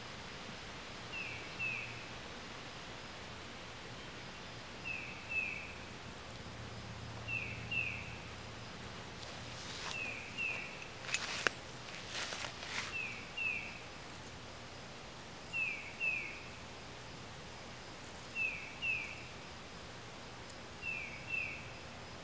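A bird calling a pair of short falling notes, repeated about every two and a half to three seconds, over a steady outdoor hiss. A brief cluster of sharp clicks comes about halfway through.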